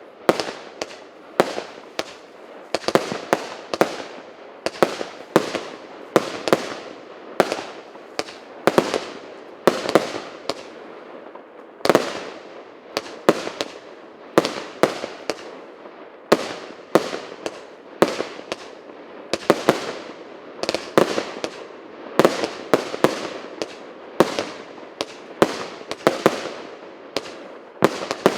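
A firework cake (battery of aerial shells) firing continuously: a steady stream of sharp bangs, about two to three a second, each with a short crackling tail.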